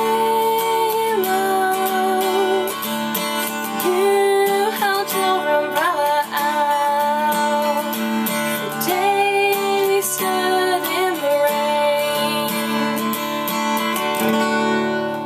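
Acoustic guitar strummed with a woman singing long held notes over it, the close of a song; near the end the strumming stops and the sound begins to die away.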